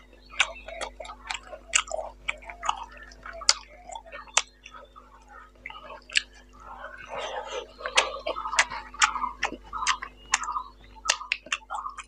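Close-miked chewing of a mouthful of rice and boal fish curry, with sharp wet lip smacks and mouth clicks several times a second. The smacks come thicker and wetter from about seven seconds in.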